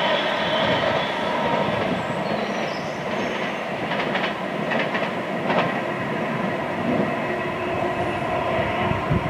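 Passenger train running along the tracks, a steady rumble of wheels on rail with several high held tones over it, and a few sharp clicks about four to five and a half seconds in.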